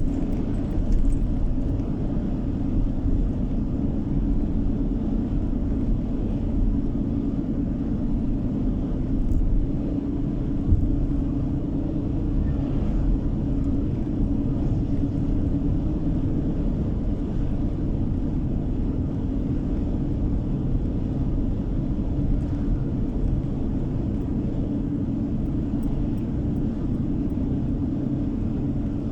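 Steady road and engine noise of a car driving at a constant speed, heard from inside the cabin: a low, even tyre and engine rumble that does not change.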